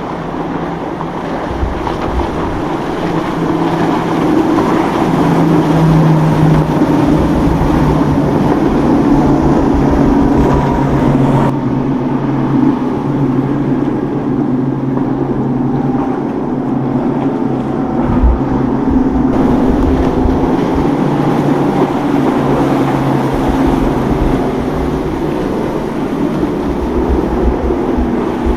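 Motorboat engines running steadily as boats pass through an inlet, with gusts of wind rumbling on the microphone now and then.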